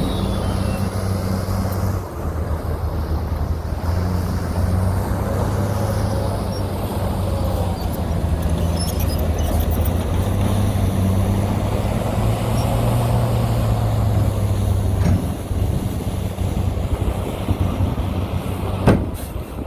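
Heavy diesel engine of an earthmoving machine running steadily with a deep, constant drone, and a single sharp knock near the end.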